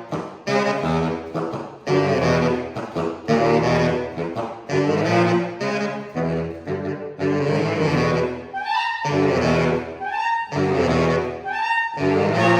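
Saxophone quartet of soprano, alto, tenor and baritone saxophones playing short, punchy chords separated by brief breaks. About halfway through, a high line enters with repeated scooping notes over the lower voices.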